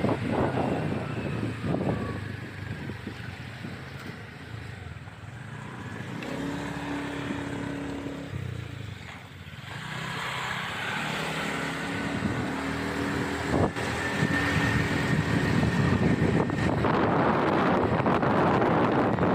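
Motorbike riding sound: wind rushing over the microphone with the engine beneath. The wind eases for a few seconds in the middle, letting a steady engine hum through, then builds back up as the bike gathers speed.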